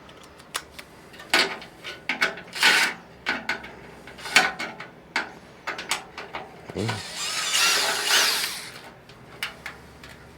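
1/4-inch nut driver working the screws out of a sheet-metal furnace blower cover: a string of sharp metal clicks and short scrapes, with one longer scrape lasting a second and a half about two thirds of the way in.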